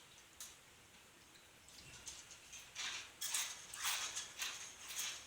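Dry crunchy cereal being chewed close to the microphone: quiet at first, then irregular crunching bursts from about three seconds in.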